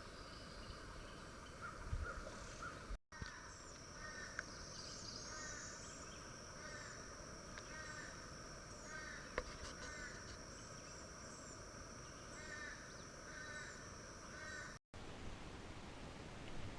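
Outdoor ambience with a bird calling over and over, short calls about once or twice a second, over a steady high-pitched insect drone. Both cut in and out abruptly at edits, about three seconds in and again near the end.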